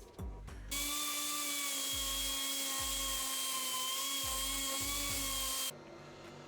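A power tool runs at a steady speed for about five seconds, with a high, even whine over a hiss. It starts and cuts off abruptly, over background music with a beat.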